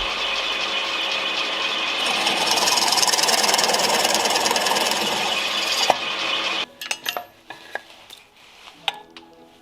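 An electric power tool running on hardwood, getting louder and harsher for a few seconds in the middle, then switched off about two-thirds of the way through, followed by a few light knocks.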